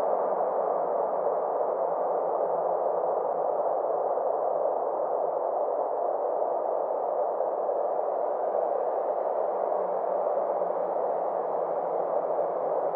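Synthetic space-ambience drone: a steady mid-range hiss whose brightness slowly dips and rises again, over a faint low hum.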